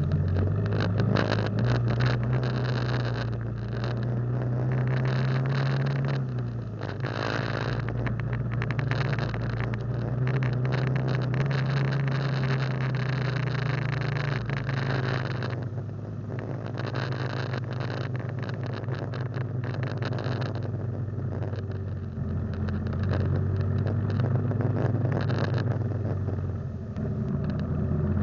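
Motorcycle engine running steadily on the move, under a constant rush of road and wind noise. The engine note steps down in pitch about six seconds in and again near the middle, then rises again toward the end.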